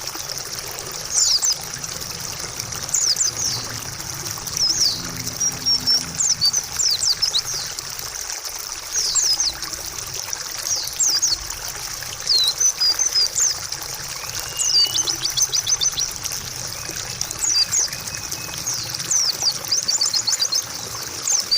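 Female white-eye (pleci) calling in repeated quick runs of short, high chirps every second or two, over a steady trickle of running water.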